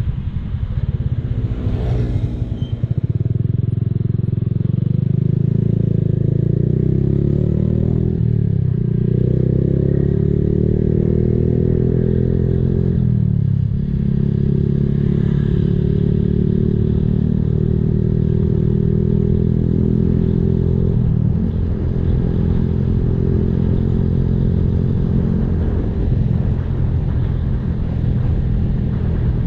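Honda Blade single-cylinder four-stroke motorcycle with an aftermarket racing exhaust, running on the road. The engine note gets louder about three seconds in, then drops and climbs again three times.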